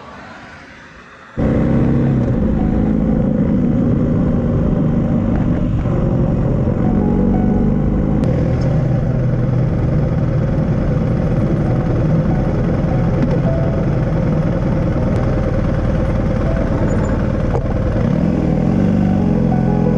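Motorcycle engine running steadily while riding, cutting in suddenly about a second and a half in after a quieter opening.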